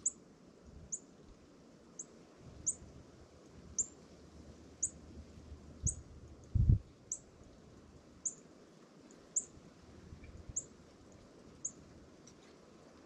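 A bird repeating one short, high, downward chirp about once a second over faint outdoor background noise. About halfway through there is a single low thump, the loudest sound.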